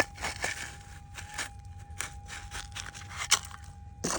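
Hand pick scratching and scraping at gravelly soil and loose rocks, in irregular strokes with small stones crackling, one sharper strike about three seconds in.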